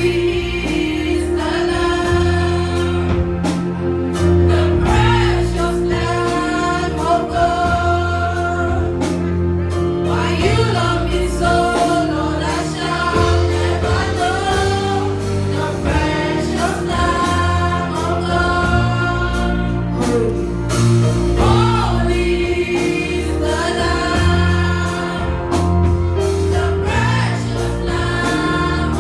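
Group of voices singing a gospel song over a steady instrumental accompaniment with bass and a beat.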